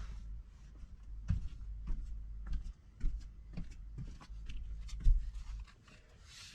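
Irregular knocks, clunks and rubbing from provisions being handled and packed, with the loudest knock about five seconds in, over a low steady hum that stops shortly after.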